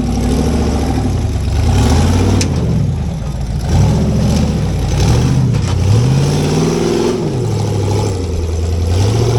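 Off-road rock-crawling rig's engine revving in repeated throttle blips, its pitch climbing and dropping every second or so, then settling toward a steadier note near the end.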